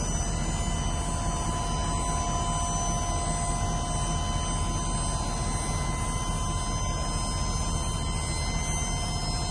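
Chevrolet Silverado 3500HD dump truck engine idling steadily, with a steady high-pitched whine over it.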